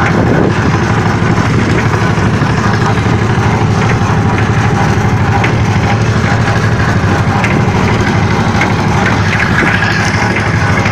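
An engine running steadily, a continuous low rumble with a fast even pulse.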